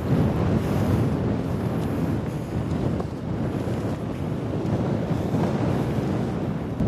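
Wind buffeting the microphone: a rough, gusting rumble that rises and falls without a break.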